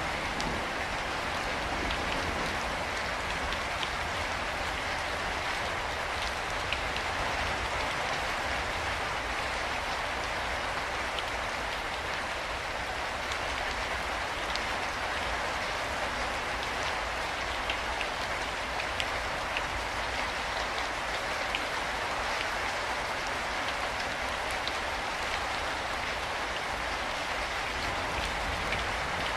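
Steady rain falling: an even hiss of rain on a surface, with occasional single drops ticking out above it.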